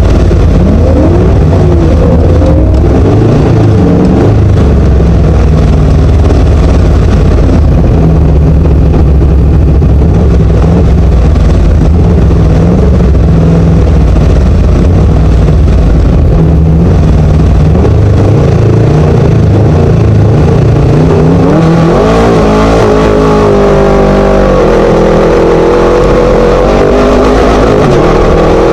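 Class 1 Chenowth desert race buggy's Scat engine at full race pace, very loud, with its pitch repeatedly climbing and dropping as it revs up and shifts through the Fortin gearbox. A heavy rumble from the car and the terrain runs under it.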